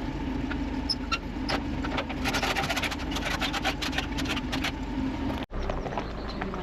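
A vehicle engine running steadily on the move, with a quick run of clicks or rattles in the middle. The sound drops out for an instant near the end.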